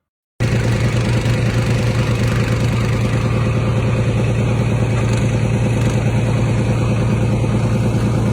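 A steady engine running with a strong, even low hum that does not change in pitch, starting suddenly about half a second in.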